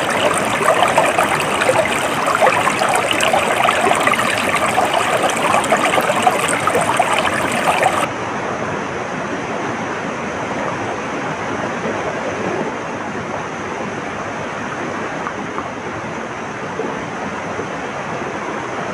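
Stream water flowing and babbling. About eight seconds in it cuts suddenly to a quieter, smoother rush of water.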